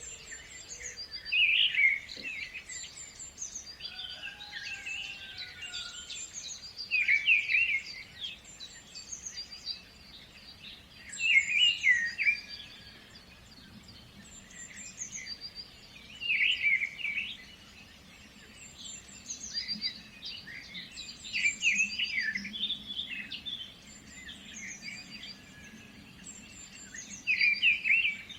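Birds singing: one loud, quick chirping song phrase recurs about every five seconds over steady softer chirps and calls from other birds.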